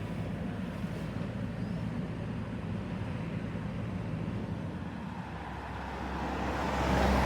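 An engine running steadily with a low hum, and a rush of noise that grows louder over the last couple of seconds.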